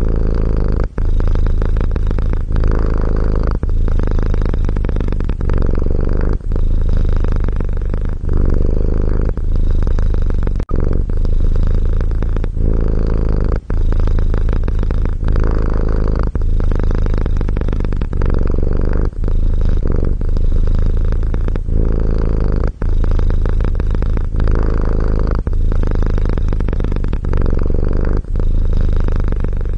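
Domestic cat purring steadily, with a short break every two to three seconds.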